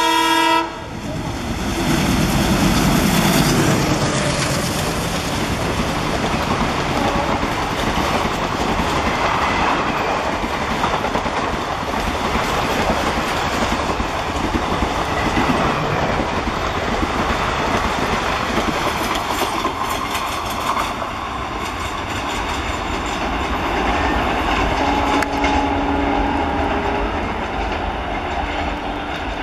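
Alco diesel locomotive ending a horn blast just under a second in, then passing at speed with a loud engine note. A long rake of express coaches follows, wheels clattering over the rail joints, and the clatter fades slowly as the train runs off.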